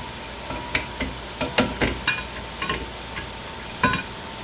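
Brake drum clinking and knocking against the rear brake shoes and hub as it is handled and slid into place: a run of sharp metallic clicks with brief ringing, the loudest about a second and a half in and again near the end.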